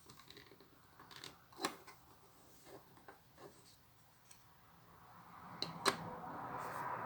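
Plastic Lego pieces being handled during building: scattered small clicks and taps, with sharper clicks at about a second and a half and again near six seconds. Over the last couple of seconds there is a swelling rustle.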